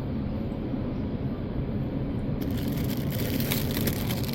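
Steady low rumble of a moving vehicle on the road. About two seconds in, a dense crackling rustle joins it for about two seconds.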